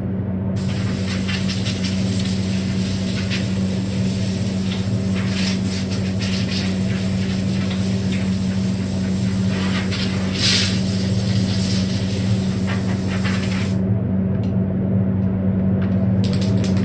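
Grip primer (adhesion promoter) being sprayed onto a composite step: a long steady hiss of spraying that stops about 14 seconds in and starts again near the end. A steady low machine hum runs underneath.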